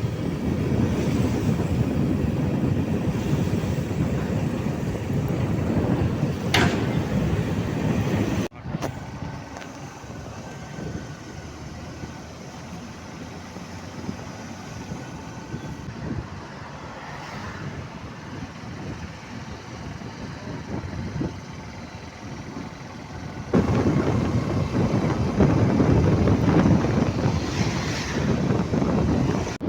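Wind rumbling on the microphone over road traffic noise. It drops suddenly to a quieter, steadier stretch about a third of the way in, and comes back loud near the end.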